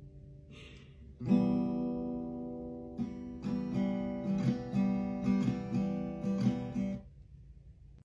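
Acoustic guitar music: a chord rings out about a second in, followed by a run of quick repeated strums that stops about a second before the end.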